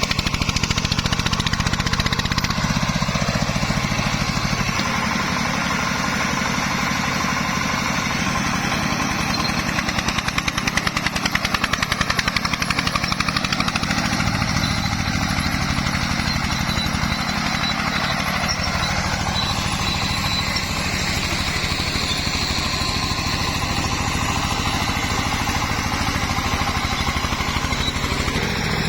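Công nông farm truck's single-cylinder diesel engine running with a rapid, even chug.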